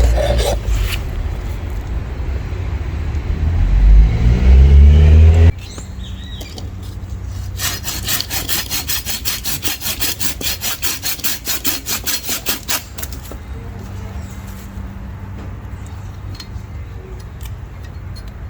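A saw cutting through a piece of wooden branch in quick back-and-forth strokes, about five a second, for about five seconds in the middle. Before it, a loud low rumble on the microphone that cuts off suddenly.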